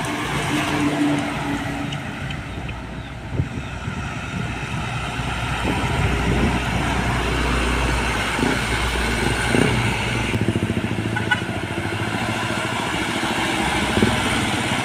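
Road traffic passing, with a deep engine rumble from a heavy vehicle going by in the middle.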